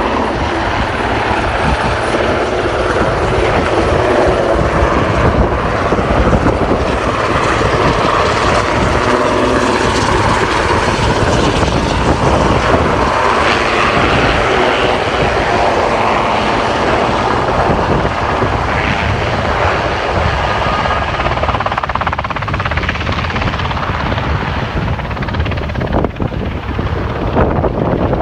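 Helicopter in flight, its rotor and turbine engine noise loud and continuous.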